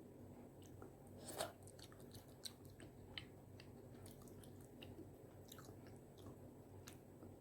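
Close-miked chewing of spicy tteokbokki rice cakes: faint, soft wet mouth clicks scattered throughout, with one louder click about a second and a half in.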